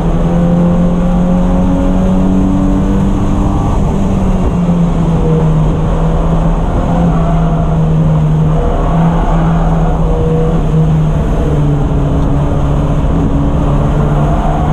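Race car engine running hard and steadily under a constant haze of road and wind noise. Its pitch drops just at the start, then holds with slight rises and dips.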